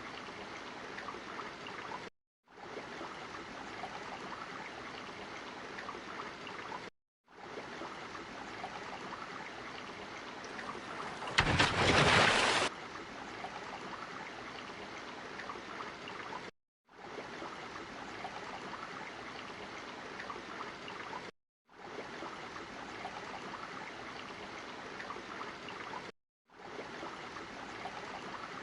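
Looped water ambience: a steady rushing, like a flowing stream, broken by a brief dead-silent gap about every five seconds where the loop restarts. About eleven seconds in comes a much louder rush of water lasting about a second and a half.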